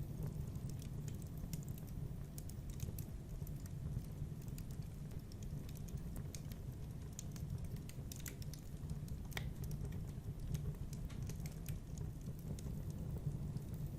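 Wood fire in a fireplace crackling: irregular small pops and snaps over a low, steady rumble.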